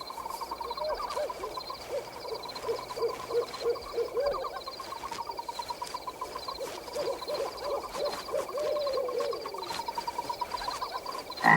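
Night forest sound effect: an owl hooting over and over above a steady high trilling.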